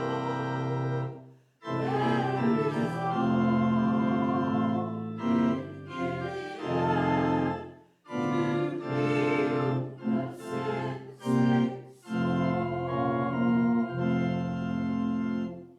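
Organ playing held chords in phrases, with brief breaks between them.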